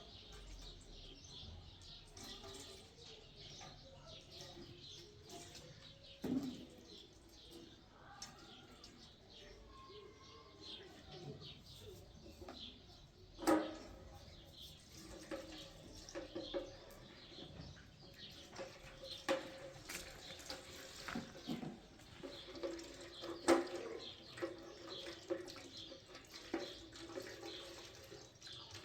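Water running or splashing, with scattered clicks and a few louder knocks.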